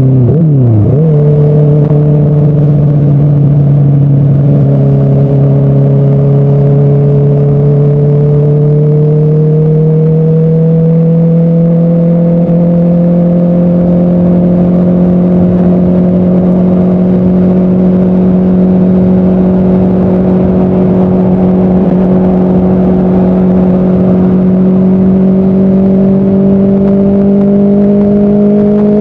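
Motorcycle engine running loud and close. The revs drop sharply and recover about a second in, then the engine note climbs slowly and steadily as the bike gathers speed.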